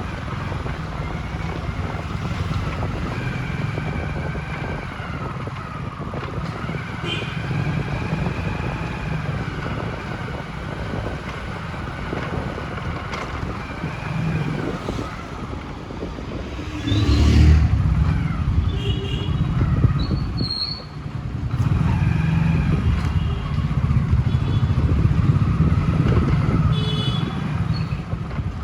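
Vehicle engine and road noise while driving through city traffic: a steady low rumble with a louder surge of passing traffic about two-thirds of the way in. Short high beeps, like horn toots, come twice in the second half.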